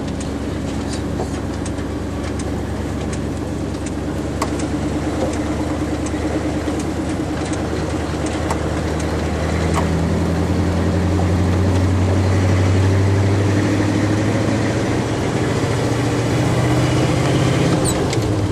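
Engine of an old 1970s farm truck, heard from inside the cab, running under way; its pitch climbs slowly from about a third of the way in and then holds steady. Small rattles and clicks come through now and then.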